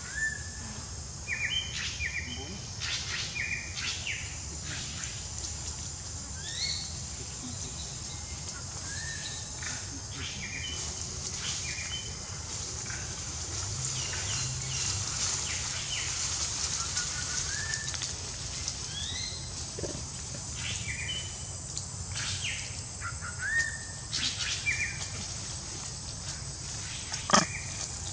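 Forest ambience: short rising bird chirps repeated again and again over a steady high insect drone, with a few faint clicks and one sharp snap near the end.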